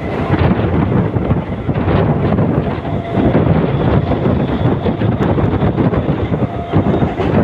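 Mumbai suburban EMU local train running at speed, a steady loud rumble with wind rushing over the microphone.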